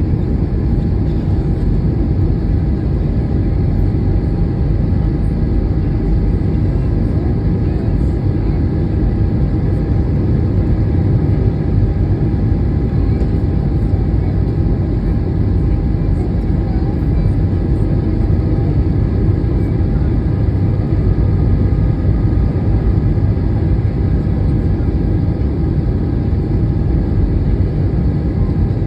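Steady aircraft cabin noise: a loud, unchanging engine drone and rumble with a faint steady hum of tones above it.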